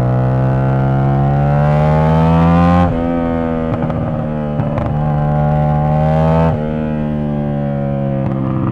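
CFMoto 450SS parallel-twin with an aftermarket exhaust pulling under acceleration: the engine note climbs, drops sharply about three seconds in at a gear change, climbs again and drops at a second shift, then holds steady at cruising speed.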